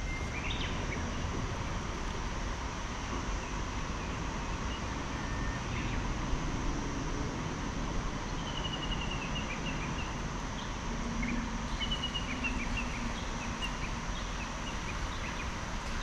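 Small birds calling outdoors over a steady low background rumble. One bird gives a quick run of short high notes about halfway through and again a few seconds later.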